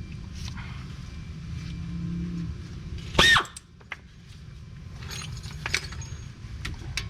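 Cordless power tool spinning briefly about three seconds in, a short loud burst with a rising whine, running down the hub assembly bolts. Light metal clicks of socket and extension are scattered over a steady low hum.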